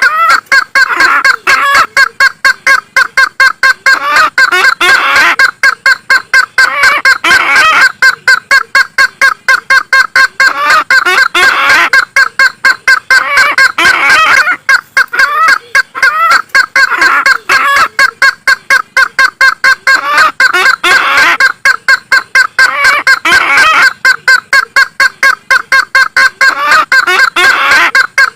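Isabelline bush-hen (Sulawesi waterhen) calling: a loud, unbroken run of rapid, harsh repeated notes, with louder phrases recurring every couple of seconds. It is a looped lure call meant to draw the bird in.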